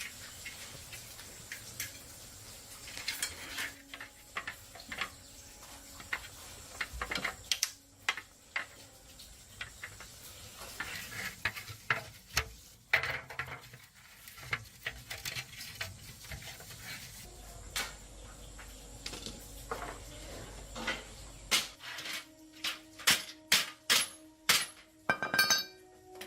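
Hard metal objects clinking and clattering in irregular knocks, growing into a quicker run of ringing clinks near the end.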